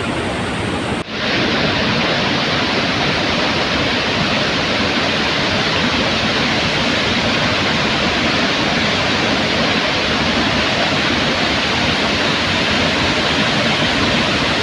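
Athirappilly Falls, a large waterfall in full flow in the rainy season, pouring with a loud, steady rush of water. About a second in the sound dips for a moment, then comes back louder and brighter.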